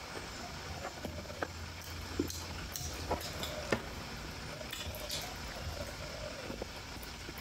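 Close-miked chewing of a steamed momo dumpling, with short wet mouth clicks and smacks scattered irregularly through it.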